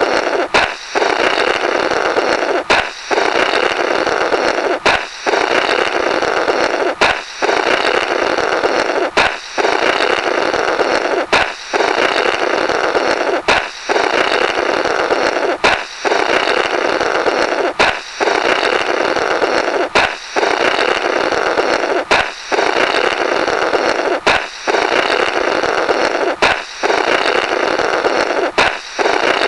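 Cartoon 'Blorrrt' sound effect looped: a sharp balloon pop followed by a rasping blow through the burst rubber. It repeats about every two seconds, around thirteen times.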